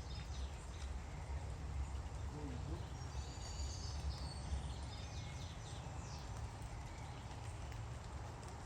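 Tits at a feeder giving a few faint, high chirps, about three seconds in and again around six seconds, over a steady low rumble.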